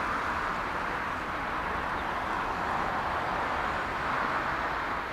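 Steady jet engine noise from an airliner, an even rushing sound with no separate events.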